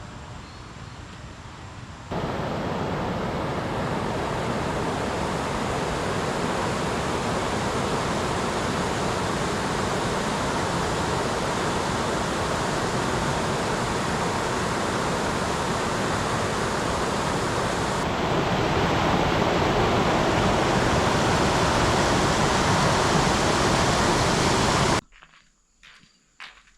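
Loud, steady rush of fast-flowing water, likely floodwater, heard in several abrupt segments: it jumps louder about two seconds in, louder again later, and cuts off suddenly near the end.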